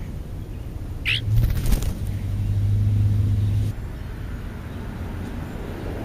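A bird gives a short squeaky call about a second in, then its wings flap as it takes off close by. A low steady hum follows for a couple of seconds and cuts off suddenly.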